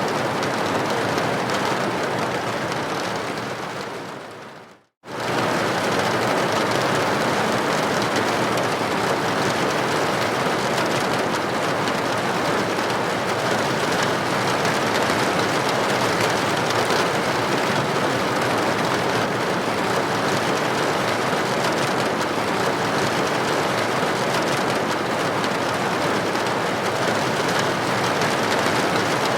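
Steady rain on a building window, an even hiss with no single drops standing out. About four seconds in it fades away to near silence, then cuts straight back in a second later, like a loop point in the recording.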